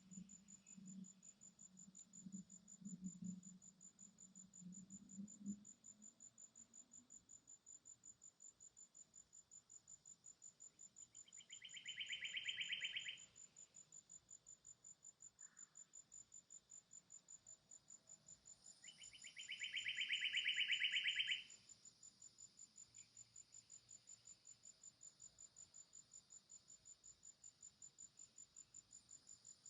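Forest insects calling: a steady high-pitched trill pulsing about three times a second, with two louder buzzing insect calls of about two seconds each, a little before the middle and again about two-thirds through. A faint low hum sits underneath for the first several seconds.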